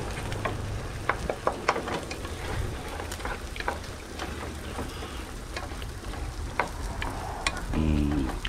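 A pan of beans, spices and garlic frying on a grill, sizzling with irregular crackling pops over a low rumble.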